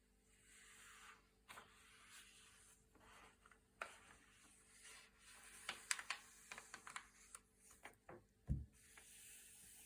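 Thick, glossy paper pages being turned by hand, sliding against each other in soft swishes, with a run of sharp crackles and clicks as the sheets flex in the middle and a dull thump near the end.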